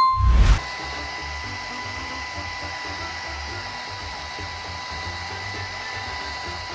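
A steady whir like a small electric motor or blower running, with a thin steady whine over it and an uneven low rumble, after a loud burst at the start.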